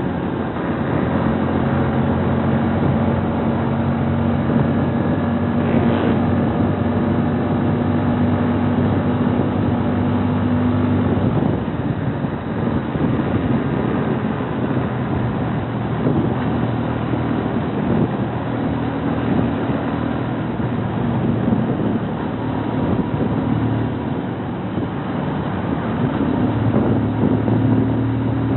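Bajaj NS125 FI (Kawasaki Rouser NS125) single-cylinder motorcycle engine running under way. It holds a steady pitch for about eleven seconds, then drops and wavers through the middle, and rises again near the end.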